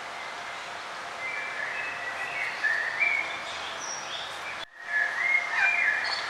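Songbirds singing warbling, chirping phrases in two spells over a steady outdoor hiss. The sound drops out for a split second just after the midpoint.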